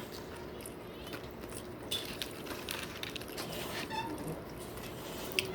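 Faint eating sounds: scattered small clicks and soft mouth noises of chewing, over a faint steady room hum.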